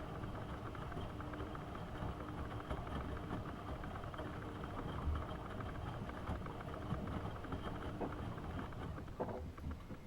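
AEG Öko-Lavamat 72520 washing machine's motor running steadily as it turns the drum during a boil wash. The motor stops near the end, leaving a few light clicks.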